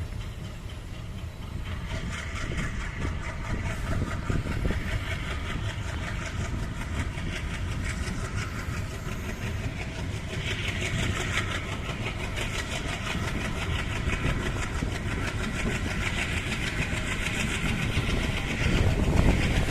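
Passenger train running along the rails, heard from inside the coach: a steady rumble of wheels on track with a dense rattling clatter.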